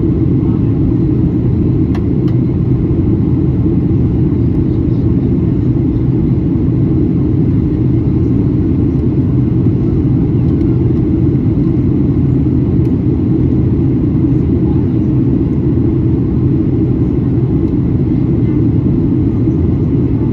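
Steady low rumble of cabin noise inside a Boeing 737-800 in flight: CFM56 jet engines and airflow heard from a window seat, unchanging throughout.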